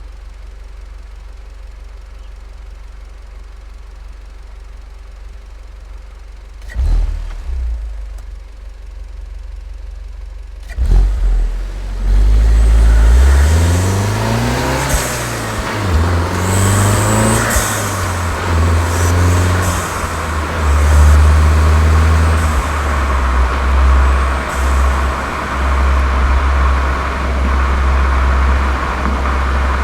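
Volkswagen Golf 7 GTI's turbocharged four-cylinder engine, fitted with a Cox aftermarket exhaust, idling low at first. About eleven seconds in it pulls away and accelerates through the gears, its note rising and dropping back at each upshift, then runs on steadily under load.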